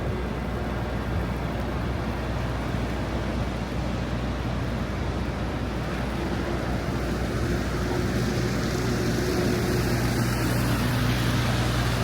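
City street traffic in snow: vehicle engines running with a steady low rumble, and a hiss that grows louder about halfway through.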